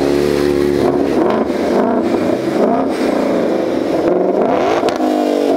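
Ford Mustang Shelby GT500's supercharged V8 running close by. It holds steady for about a second, then is revved up and back down a few times.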